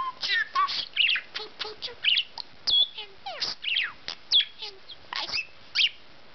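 Budgerigar chattering: a rapid run of short chirps, squawky notes and quick whistled glides up and down, which stops shortly before the end.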